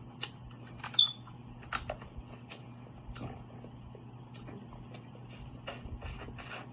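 Close-miked eating: irregular wet mouth clicks and smacks of chewing seafood, with the loudest clicks in the first two seconds.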